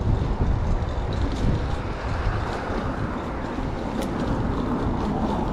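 Steady rumble of city traffic mixed with wind buffeting the microphone, with a broad swell of passing-vehicle noise about two to three seconds in.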